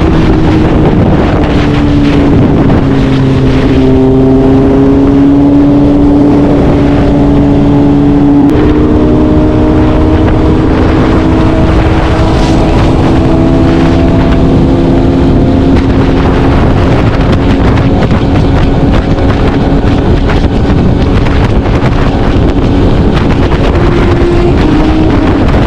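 BMW S1000RR's inline-four engine running at steady highway speed, its pitch shifting slightly about eight seconds in, under heavy wind rush on the microphone.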